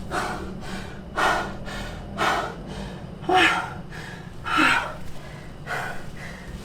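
A man breathing hard and fast through the mouth, out of breath after a set of burpees: about one heavy breath a second, some with a short catch in the voice.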